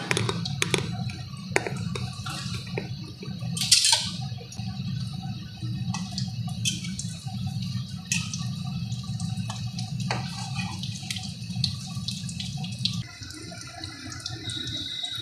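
Breadcrumb-coated chicken pieces deep-frying in hot mustard oil, sizzling with a steady crackle of small pops. One louder sharp clack comes about four seconds in, and a low steady hum beneath the sizzle stops near the end.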